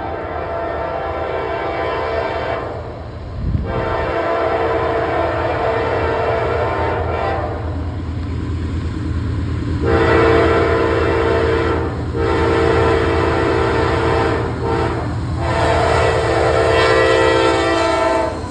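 Diesel locomotive air horn, a chord of several tones, blowing repeated long blasts with brief breaks as the train approaches a grade crossing, over the steady low rumble of the locomotive and train.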